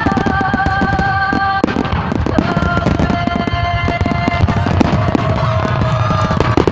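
A fireworks display going off in a rapid, dense run of crackles and pops, over music with long held notes.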